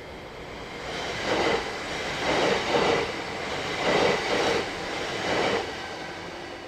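A train rolling past, its wheels clattering over the rails in grouped, partly paired beats that swell and then fade.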